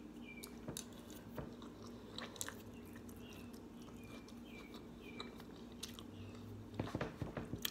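Quiet close-up mouth sounds of a person chewing a spoonful of hamburger, rice and gravy, with small wet clicks throughout and a denser run of clicks near the end.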